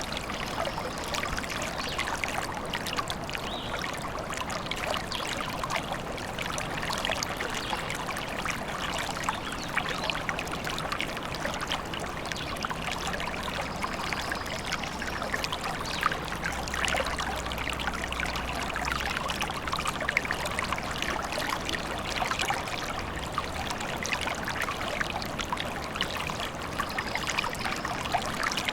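Small forest stream trickling and babbling over rocks, a steady, unbroken flow of water.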